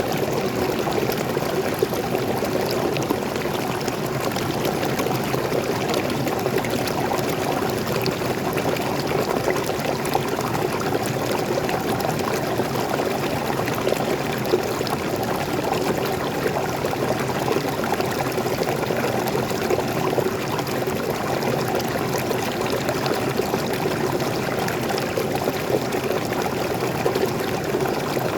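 Small waterfall and stream of fresh water splashing and pouring in a steady, unbroken rush.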